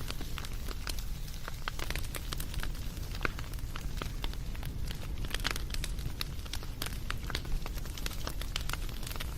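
Wood fire crackling, with irregular sharp pops and snaps several times a second over a low, steady rumble of flames.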